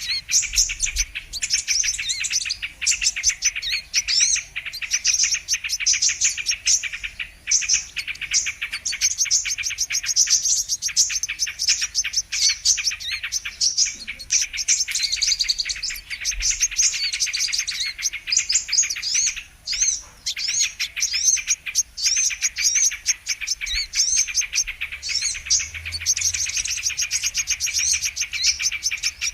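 Brown-throated sunbird (kolibri kelapa) song used as a trapping lure: a dense, unbroken stream of rapid, high-pitched chirps and twitters, pausing only briefly a few times.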